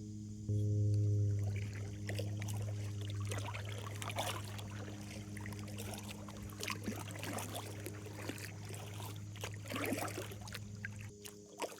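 Kayak paddle strokes dipping into river water, with splashes and drips, over a steady low hum that stops shortly before the end.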